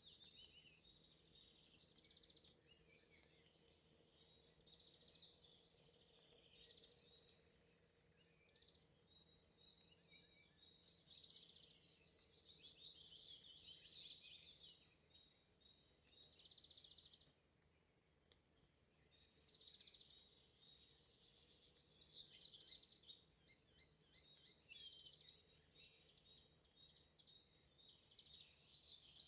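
Songbirds singing and chirping faintly in a run of high, rapid phrases, with a short pause past the middle.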